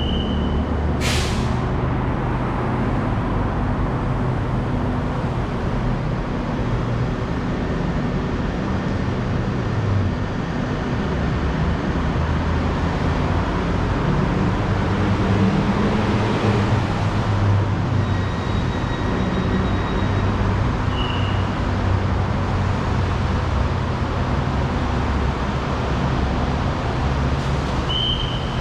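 Steady rumble of a moving vehicle with a low hum under it. There is a sharp, brief hiss about a second in, and a few short high tones now and then.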